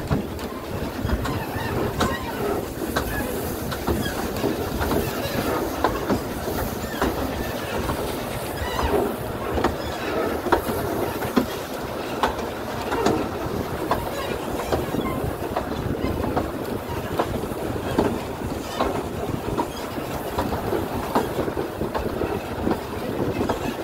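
2 ft 6 in narrow-gauge railway carriage running along the track: a steady rumble of wheels on rail with irregular clicks and clatter over the rail joints, heard at the carriage window.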